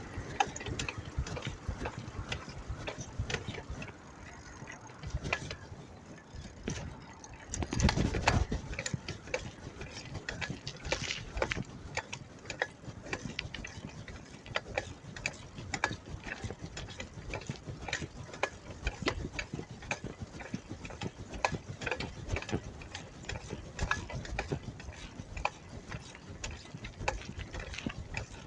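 Bicycle rear freewheel ticking rapidly as the bike coasts, a steady run of close-spaced clicks, with a louder rush of wind or a passing vehicle about eight seconds in.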